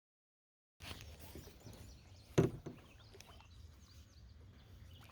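Silence for almost a second, then quiet outdoor stream-side ambience with a low rumble and a few light clicks, and one sharp knock about two and a half seconds in.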